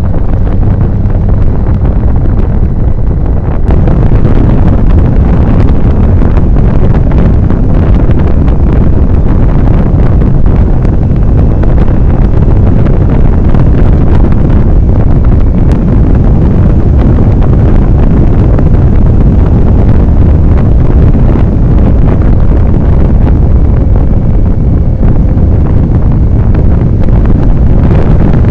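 Heavy wind buffeting on the microphone of a camera on a moving motorcycle, with the motorcycle's engine and road noise under it. It gets louder a few seconds in and then stays steady.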